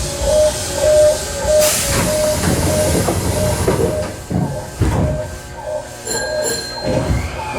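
Sanyo Electric Railway train running by, with a bell-like ding repeating about twice a second, as from a level crossing bell. A short hiss comes about a second and a half in.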